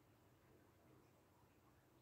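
Very faint, steady light rain, close to near silence.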